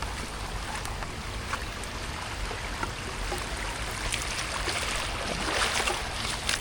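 Rain falling steadily, with many scattered drip and splash ticks, swelling briefly louder about five and a half seconds in.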